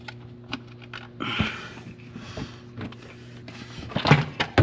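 Scattered clicks and clinks of tools and intake parts being handled during engine work, with louder knocks about a second in and again near the end, over a steady low electrical hum.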